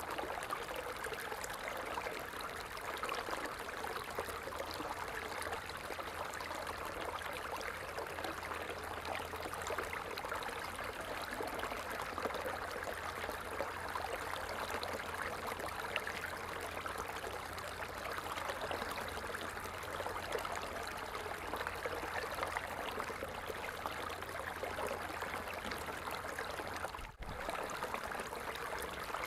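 Water falling and splashing in a steady, unbroken rush, with one brief dip in level near the end.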